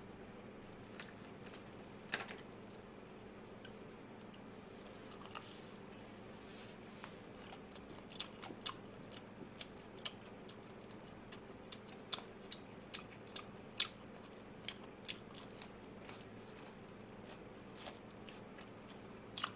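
Chewing and crunching of crispy fried perilla-leaf chicken close to the microphone: scattered crisp bites and small clicks, more frequent in the middle, over a faint steady hum.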